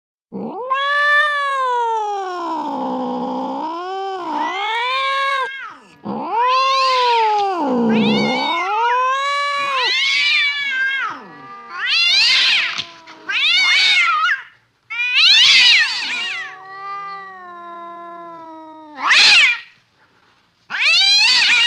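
Cat yowling: several long, drawn-out wails that sag and rise again in pitch, followed by a string of shorter calls toward the end.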